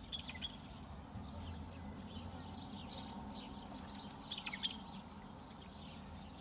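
Faint bird chirps: a few short calls just after the start and a quick cluster of short falling chirps about four seconds in, over a low steady outdoor background.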